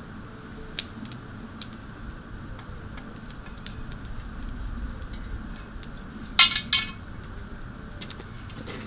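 Metal cookware and utensils clinking with scattered light clicks, then a short burst of loud clanking about six and a half seconds in.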